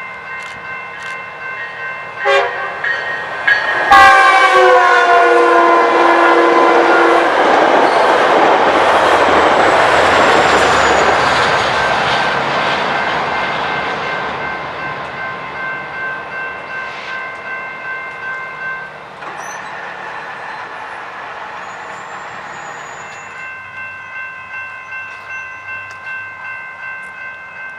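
Railroad grade-crossing warning bells ringing in an even pulse while a train passes: its multi-note horn sounds about four seconds in and drops in pitch as it goes by, then the rush of the train swells and fades over the next ten seconds or so.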